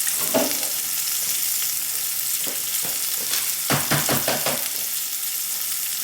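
Breaded asparagus spears deep-frying in hot oil, a steady sizzle, with a few short knocks near the middle.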